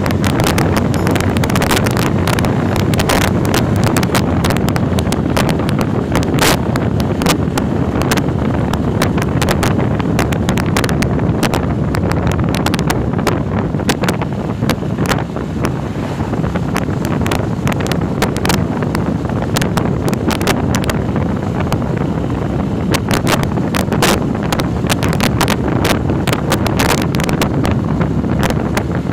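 Heavy wind buffeting on the microphone of a moving motorcycle: a continuous low rumble broken by frequent crackling pops, with the ride's road and engine noise buried underneath.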